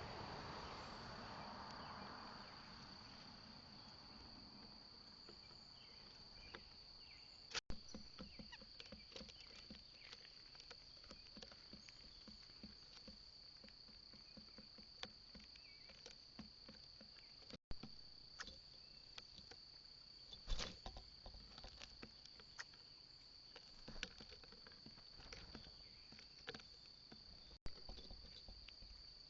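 A steady, high, continuous trill of insects, likely crickets, with scattered small taps and clicks over it.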